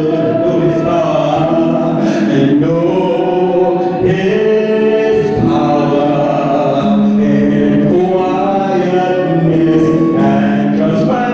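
A choir singing, voices holding long notes together in chords that change every second or so.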